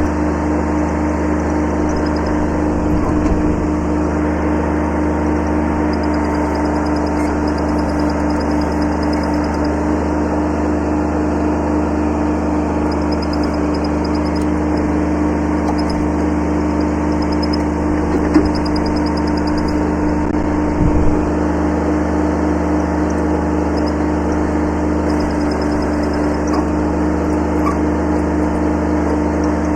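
Kubota B7100 subcompact tractor's three-cylinder diesel engine running at a steady speed, with a couple of brief knocks about two-thirds of the way in.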